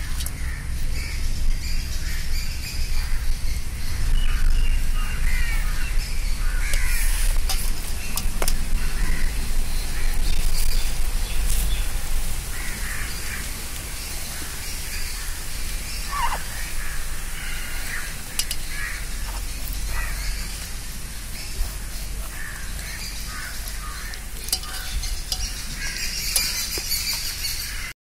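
Birds calling repeatedly in short chirps, over a steady low rumble, with a few sharp clicks.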